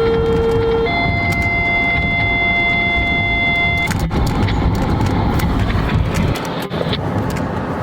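Fire department two-tone dispatch alert over a radio or pager: a steady lower tone for about a second, then a higher tone held for about three seconds, alerting crews to a call. A steady low rumble runs underneath, with a few clicks after the tones stop.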